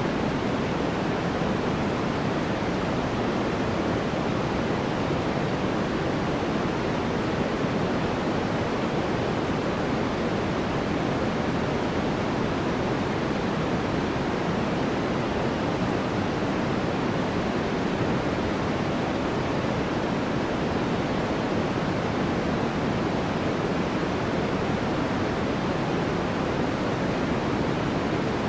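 Steady, unchanging white noise for sleep: an even hiss-like rush, strongest in the lower middle and softer in the highs.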